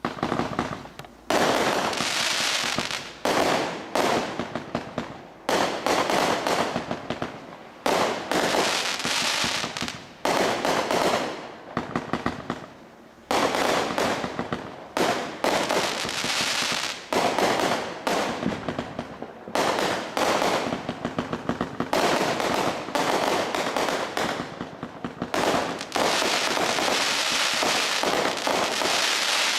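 192-shot firework cake firing: rapid volleys of shots, each wave trailing off, coming about once a second with hardly a gap. It starts suddenly and stops just before the end.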